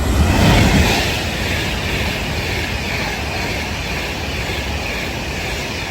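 Class 390 Pendolino electric train passing through at speed: a loud, steady rush of wheels and air, loudest in the first second, with a light clickety-clack of wheels over rail joints.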